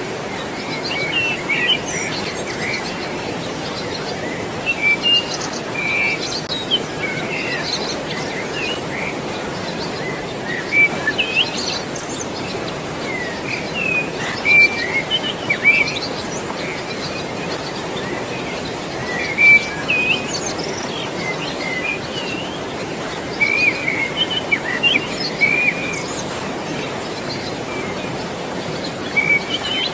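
Many small birds chirping and calling in short, scattered bursts over a steady rush of flowing water.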